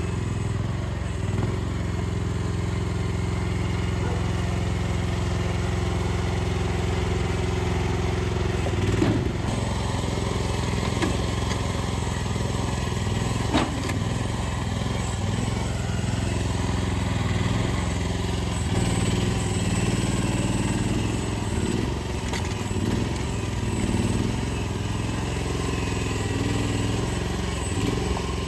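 Mini excavator's diesel engine running steadily under work, with its pitch shifting a little as it loads and two sharp knocks, about nine and thirteen seconds in.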